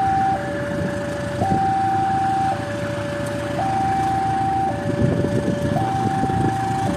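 Railway level-crossing warning alarm sounding a two-tone electronic signal, high then low, each note about a second long, over the low rumble of a train.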